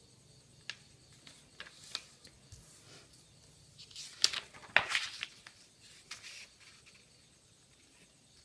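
A sheet of paper being handled and folded: scattered crinkles and sharp creasing snaps, busiest and loudest about four to five seconds in.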